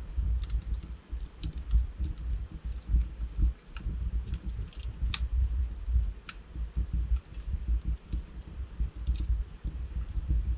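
Wood fire burning in a fireplace: a low steady rumble of the flames with sharp, irregular crackles and pops from the burning logs.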